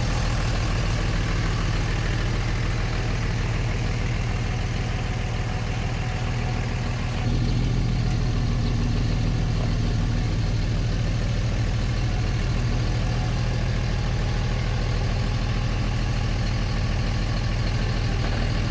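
Truck engine running steadily, a little louder from about seven seconds in.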